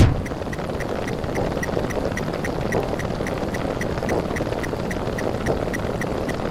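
Dense layered mix of looped cartoon and meme sound effects, a steady noisy wash with a short pip repeating about four times a second. A sharp low thump comes right at the start.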